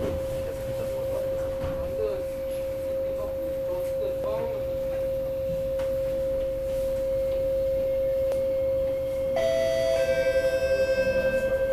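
Inside a metro train car, a steady electrical whine from the train's equipment runs over a low rumble. About nine seconds in, a second, higher tone and several fainter high tones join, then a fast pulsing warble sets in as the train's traction equipment starts up to pull away from the station.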